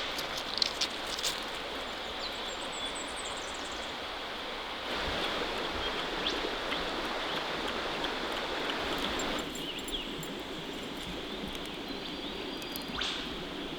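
A creek's water running steadily, with short high bird chirps over it in the first few seconds. The water sound steps up louder for about four seconds in the middle, then drops back.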